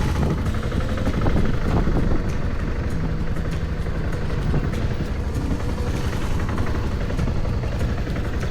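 Motorcycle engine running while riding, under a steady heavy rumble of wind on the microphone.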